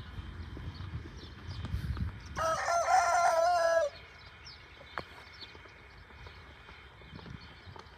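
Rooster crowing once: a single cock-a-doodle-doo about a second and a half long, starting a little over two seconds in and cutting off sharply.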